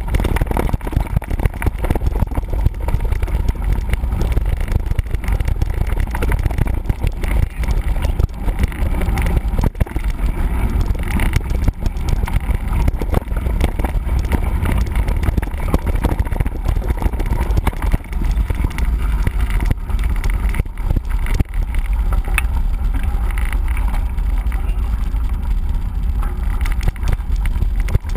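Ride noise from a mountain bike on the move: wind buffeting the microphone, strongest in the low rumble, with a steady stream of small knocks and rattles as the bike jolts over rough ground.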